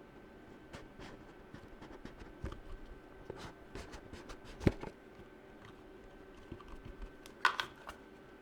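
Fingernails tapping on objects close to the microphone: scattered, irregular sharp taps. One louder tap falls a little past the middle, and a quick cluster of taps comes near the end.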